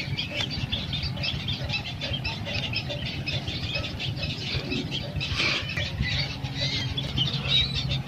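Many small birds chirping and twittering continuously, over a steady low hum.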